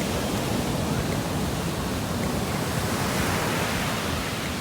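Ocean surf breaking and washing up the beach: a steady rushing noise that swells a little about three seconds in.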